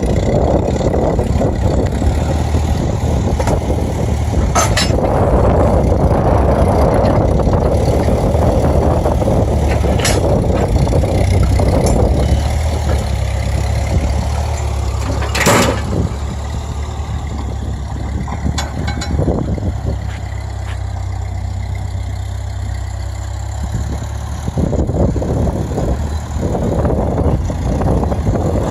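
Ford 8N tractor's four-cylinder flathead engine running steadily, with a few sharp knocks along the way. It drops to a lower, quieter note about halfway through and picks up again near the end.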